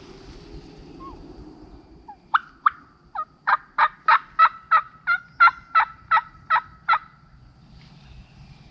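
Turkey yelping: a run of about fifteen sharp, evenly spaced yelps, roughly three a second, starting a couple of seconds in.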